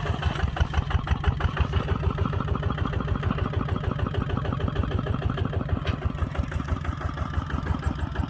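Kubota ZT140 single-cylinder diesel engine running steadily, with a rapid, even beat of about ten pulses a second.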